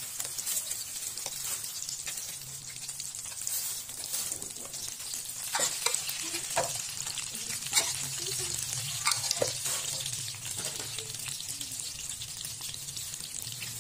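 Spring rolls sizzling steadily as they pan-fry in shallow oil. A run of sharp clicks and pops between about five and ten seconds in as wooden chopsticks turn the rolls in the pan.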